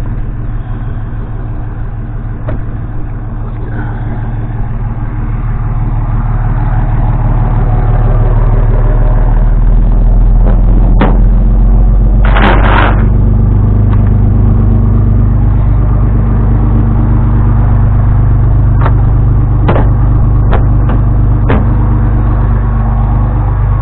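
Engine of a vehicle running as it drives, growing louder over the first several seconds and then holding steady. A few sharp knocks and a brief rattle break in near the middle and later on.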